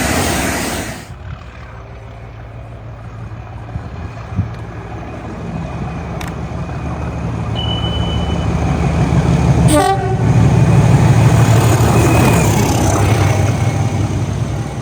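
A passing train's noise cuts off suddenly about a second in. Another train then approaches with a steady low engine hum that grows louder to a peak around ten seconds in, passing close, with a short horn toot at about the loudest point.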